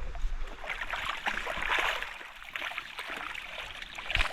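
Creek water rushing and splashing, thickening from about a second in.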